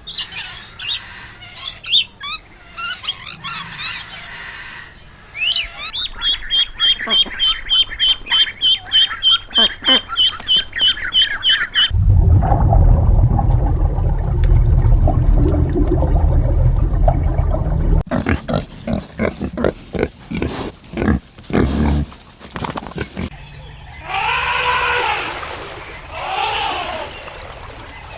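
A run of different animal calls, one short sound after another with abrupt changes. Among them is pig grunting, with a fast, even high chirping in one stretch and arching calls near the end.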